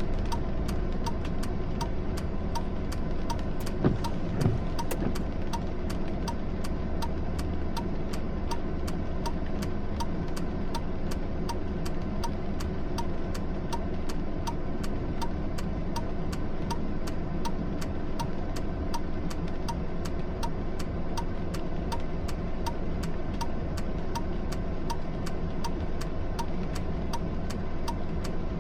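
A motor vehicle's engine and road rumble, with a steady ticking about twice a second and two short knocks about four seconds in.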